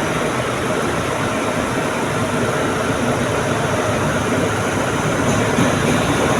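Diesel locomotive hauling a passenger train into a station, a steady rumble of engine and rolling wheels that grows slightly louder near the end.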